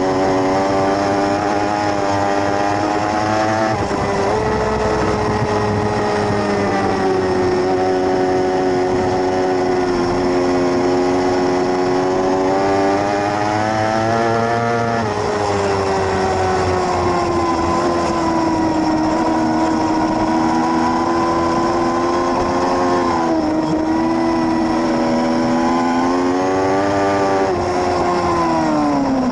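600cc sportbike racing engine under hard acceleration: its pitch climbs, then drops sharply at gear changes about 4, 7 and 15 seconds in. It dips again later and falls away steeply near the end as the bike slows.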